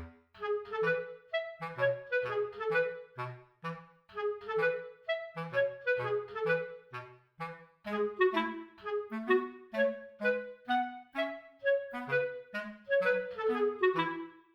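Background music: a light, bouncy tune of short clarinet-like woodwind notes over a plucked bass line.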